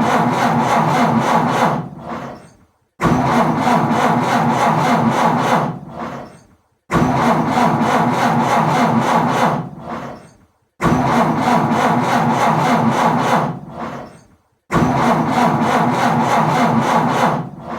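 Car engine cranked by its starter motor without catching: five cranking attempts of about three seconds each, with a pause of about a second between them. Each attempt runs with a fast, even pulse of a few beats a second and winds down at the end. The engine fails to start.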